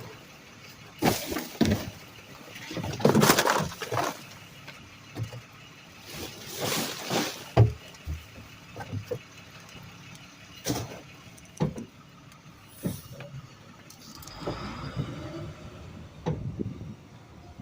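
Rear-loader garbage truck working at its hopper: irregular bangs, rattles and rushes of noise as trash is handled, with a sharp knock about seven and a half seconds in and a rising whine near the end.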